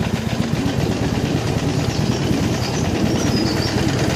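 Harley-Davidson Iron 883's air-cooled 883 cc V-twin running at low speed on a rough track, a fast, even pulsing beat whose pitch wavers a little up and down with the throttle.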